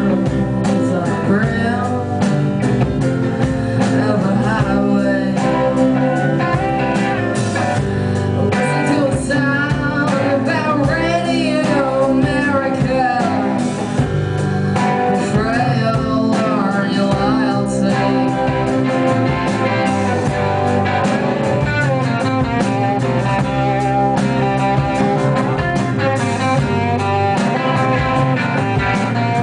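Live band playing a song, with singing over guitar.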